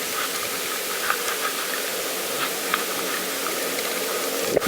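Steady hiss of a bicycle riding along a path, with faint scattered ticks.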